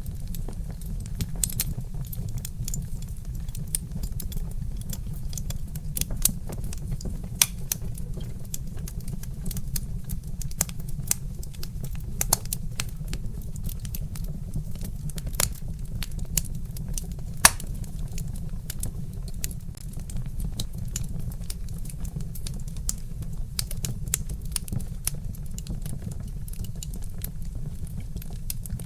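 Wood fire crackling, with sharp snaps and pops at irregular intervals, one loudest pop about two-thirds of the way through, over a steady low rumble.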